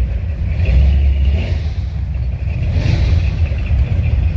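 Classic car engines rumbling through their exhausts close by, a deep uneven low rumble that swells about a second in.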